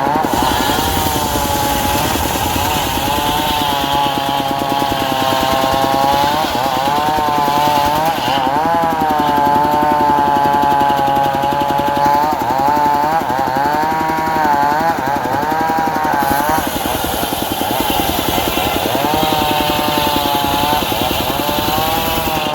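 Diesel-powered circular saw cutting teak, running continuously, its pitch sagging and recovering again and again as the blade bites into the wood. A higher hiss accompanies it, dropping out for several seconds in the middle.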